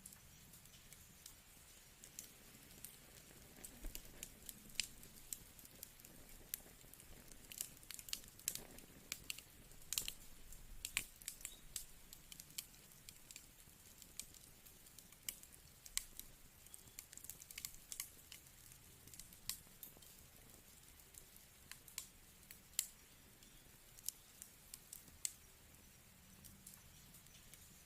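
Wood fire crackling in a fireplace: irregular sharp pops and snaps over a soft steady hiss, busiest about eight to twelve seconds in.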